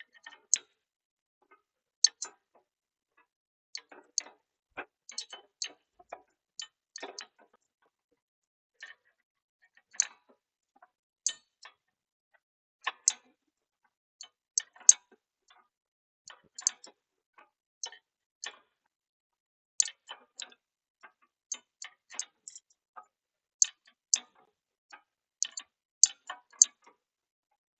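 Irregular sharp metallic clicks and clinks, a few a second at most, of tools and metal parts being handled while a transmission is fitted back into a forklift frame.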